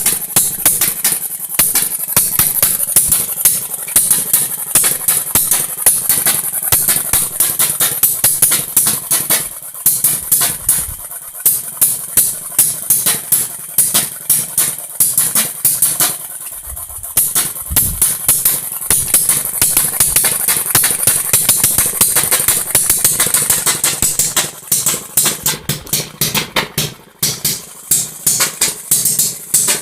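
Homemade two-stroke engine built from a refrigerator compressor, running with a rapid, even popping from its firing. It falters and picks up again several times.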